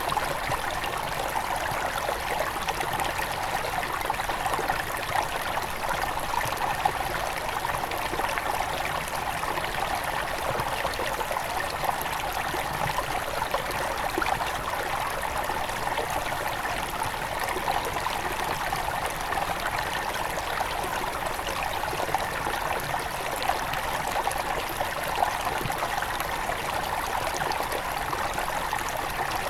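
Small forest river at its headwaters, flowing and splashing over stones with a steady babble.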